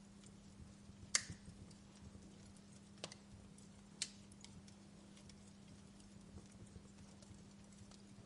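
Wood fire crackling quietly, with scattered small ticks and a few sharp pops: the loudest about a second in, two more at about three and four seconds. A steady low hum runs underneath.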